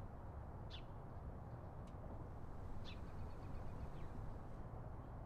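Quiet outdoor background with a steady low rumble and a few short, high bird chirps.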